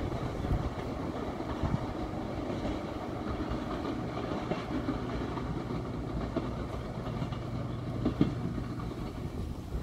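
Passenger train hauled by a D19E diesel-electric locomotive rolling past with a steady low rumble. Scattered wheel clacks sound over rail joints, the sharpest about eight seconds in.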